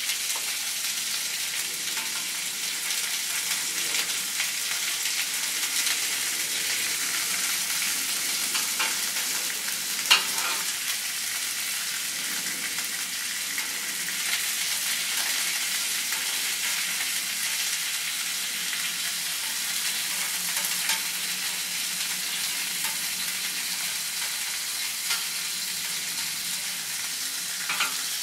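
Chicken wings sizzling on a hot oiled grill: a steady hiss with scattered small pops, one louder pop about ten seconds in.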